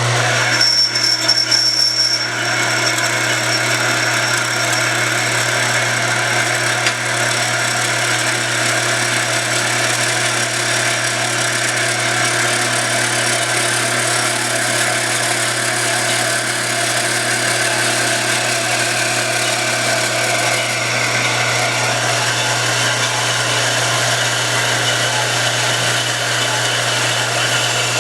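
Power metal-cutting saw running steadily as it cuts through a piece of steel angle iron, a constant motor hum under a grinding, ringing cutting noise; it shuts off at the very end as the cut finishes.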